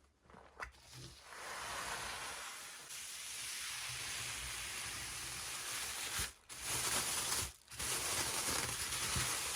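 Steady rustling of packaging being handled, with two short pauses near the end.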